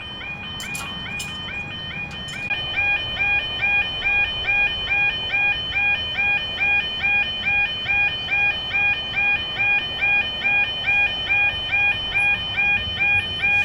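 Level crossing audible warning alarm sounding, an electronic warbling tone repeating about twice a second. It gets louder about two and a half seconds in.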